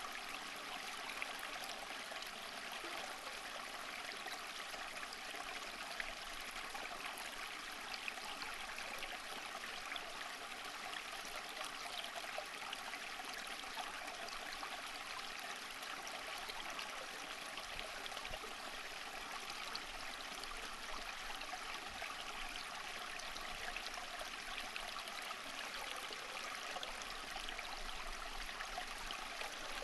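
Stream water flowing and trickling steadily, a continuous rushing with fine splashes throughout.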